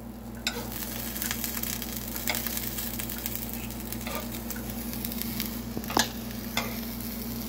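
A pizza slice frying in a nonstick frying pan, a steady sizzle. A few light clicks of a knife against the pan come through, the sharpest about six seconds in.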